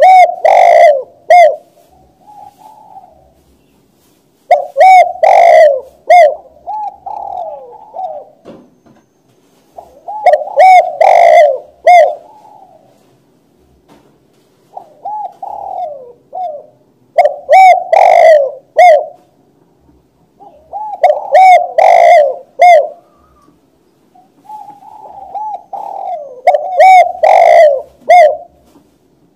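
Spotted dove (tekukur) cooing: loud, repeated phrases of several rounded coo notes, about one phrase every five seconds.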